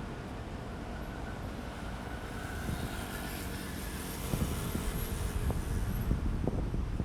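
Strong wind buffeting the phone's microphone: a low rumbling roar that turns gustier, with irregular buffets, about four seconds in.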